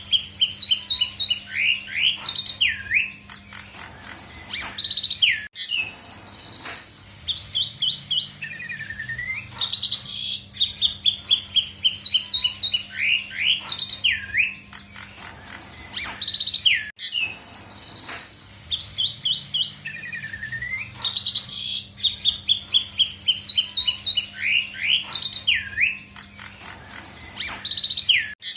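Asian pied starling (jalak suren) singing a long varied song of rapid whistled notes, falling slurs and trills. The same sequence of phrases comes round again about every eleven and a half seconds, over a faint steady low hum.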